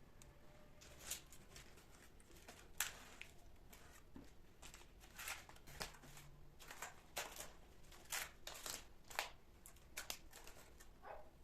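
Soft, irregular handling noises: light clicks, taps and brief rustles, more of them in the second half.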